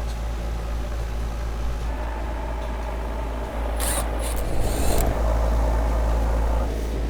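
Outdoor air-conditioning condensing unit running with a steady hum, its vibration gone now that a part has been moved off the grill it was rubbing against. A short hiss about four seconds in, lasting about a second.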